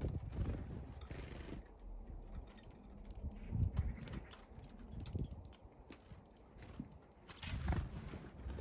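Small birds at a window feeder, pecking and landing with irregular taps and knocks, and a few brief high chirps near the end.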